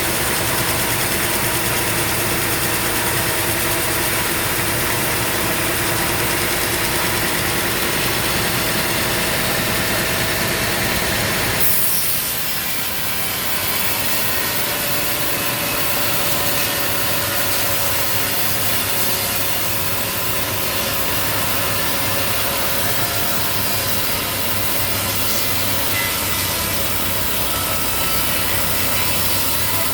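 Sawmill engine running steadily under a continuous, even sound. About twelve seconds in, the sound changes abruptly and loses some of its depth.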